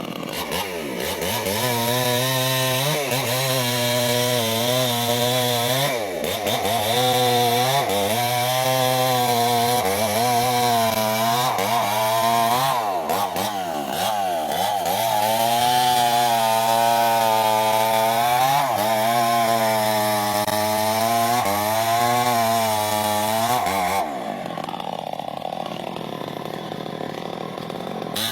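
Chainsaw running under load as it cuts through a sengon trunk, its engine pitch rising and falling as the chain bites and frees. Near the end the sound turns duller for a few seconds.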